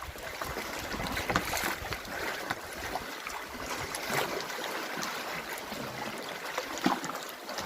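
Lake water lapping and splashing around a kayak, with many small irregular splashes and some wind buffeting the microphone.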